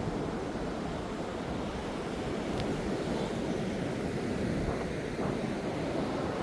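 Steady noise of breaking surf and heavy rain on the beach, with wind buffeting the microphone.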